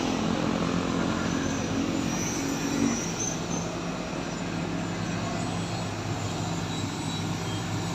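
Excavator's diesel engine running steadily under load. A faint high squeal comes in around two seconds, and one engine note drops away about three seconds in.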